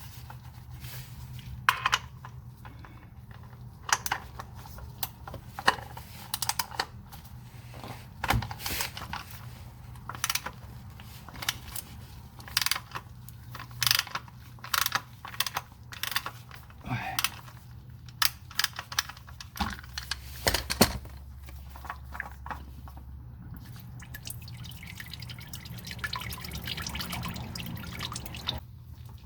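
Motor oil dripping into a drain pan as the old oil filter comes off, heard as many irregular drips and clicks over a steady low hum. A softer trickle comes near the end.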